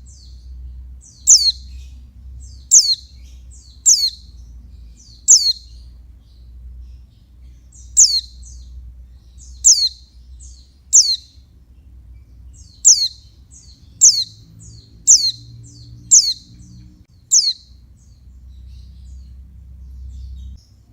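Female white-eye (pleci) calling: about a dozen sharp, high notes that sweep steeply down in pitch, each trailed by a few short chips, roughly one every second or so with a couple of short pauses. A steady low hum lies underneath.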